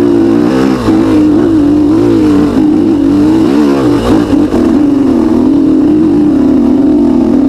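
Husaberg TE 300 two-stroke enduro engine held at high revs in first gear while labouring up a steep, loose climb, its pitch wavering up and down with the throttle.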